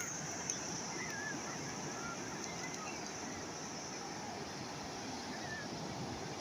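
Calm sea waves washing steadily, with a few faint short chirps in the first few seconds.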